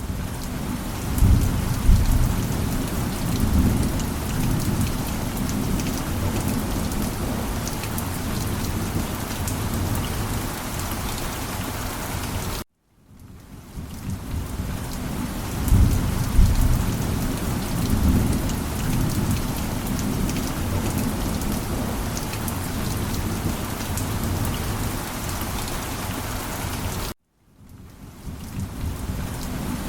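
Steady heavy rain with low rolling thunder rumbles. Twice the sound cuts off suddenly into a moment of silence and then fades back in, and a thunder rumble swells shortly after each restart: a looped storm recording starting over.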